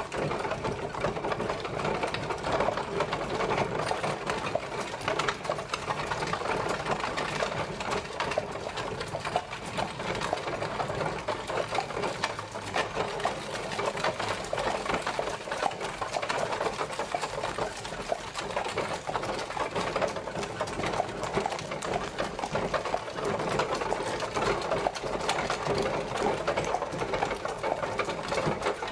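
Horse-drawn carriage on the move: a steady, dense rattle and clatter of the wheels and carriage body, unchanging throughout.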